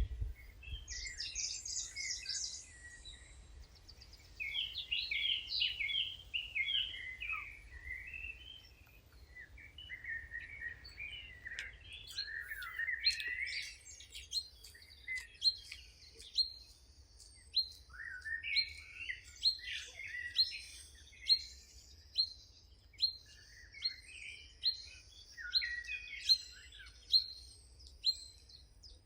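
Several wild birds singing together in a chorus of varied chirps and trills. From about halfway in, one bird repeats a sharp, high note over and over, about three times every two seconds.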